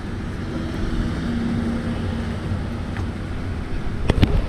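Steady low vehicle rumble with road and wind noise, a faint hum rising in the middle and a few clicks near the end.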